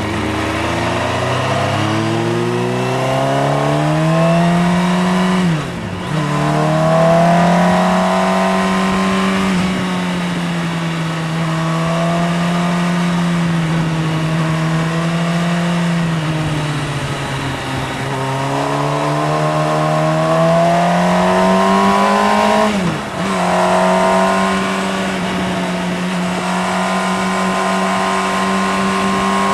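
Motorcycle engine under way, its pitch rising and falling with the throttle. Twice, about six seconds in and again after about 23 seconds, the sound briefly dips and the pitch drops sharply at a gear change.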